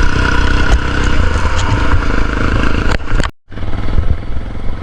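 Motorcycle running along a road, its engine under heavy wind buffeting on the microphone. The sound cuts out briefly a little over three seconds in, then carries on.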